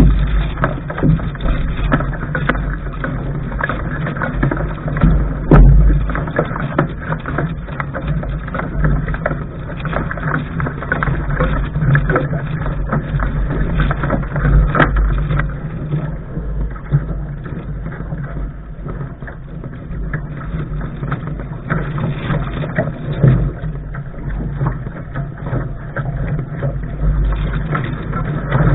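Wind buffeting the microphone with water rushing along the hull of a Lark sailing dinghy under sail. The rumble is loud and uneven, swelling and easing throughout.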